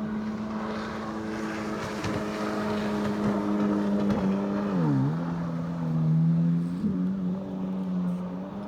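Honda Aquatrax R-12X Turbo personal watercraft's turbocharged four-cylinder four-stroke engine running through a custom open straight-through stainless exhaust with no muffler or water lock. The steady engine note drops sharply in pitch about five seconds in, then comes partly back up and settles.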